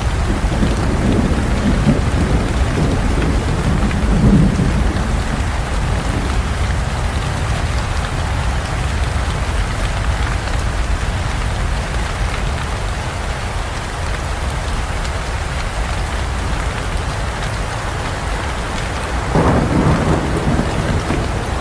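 Heavy rain falling steadily in a forest, with rolling thunder rumbling low in the first few seconds and again near the end.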